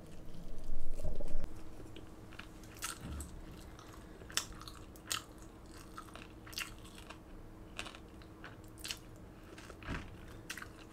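Crunchy food being bitten and chewed: sharp, irregular crunches spaced about a second apart, after a muffled low bump about a second in. A faint steady hum runs underneath.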